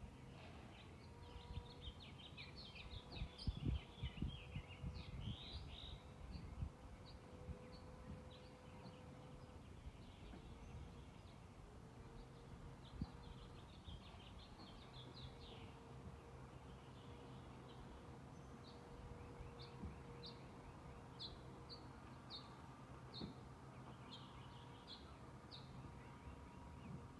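Forest ambience: birds chirping in quick high twittering runs, busiest about two to six seconds in, around fifteen seconds, and again in the last third, over a faint steady hum. A few low thumps come about three to five seconds in.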